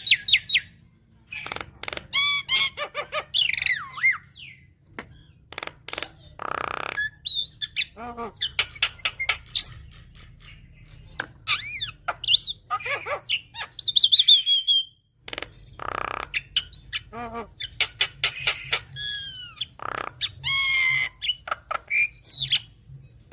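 Javan myna singing a fast, varied song of chirps, whistled up-and-down glides and clicks, broken by a couple of harsh squawks.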